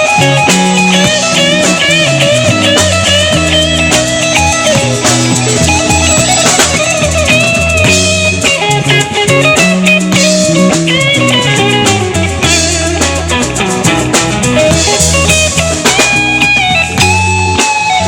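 Live band playing an instrumental passage: lead guitar playing bending lines over bass guitar and drum kit.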